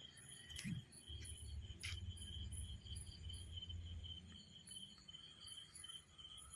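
Insects chirping in a steady, high pulsing trill, with the pulses repeating two to three times a second, over a faint low rumble.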